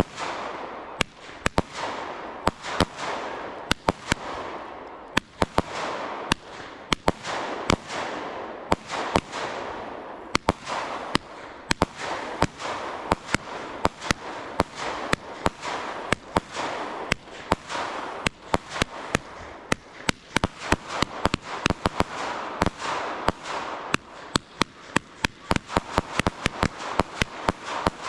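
Fireworks going off in a continuous barrage: many sharp bangs, often several a second, over steady crackling and hiss, with the bangs coming thicker near the end.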